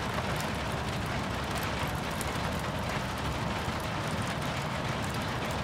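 Steady rain shower falling, an even wash of noise with scattered ticks of individual drops.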